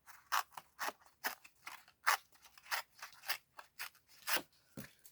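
Scissors cutting paper or card: about a dozen short snips in quick, slightly uneven succession.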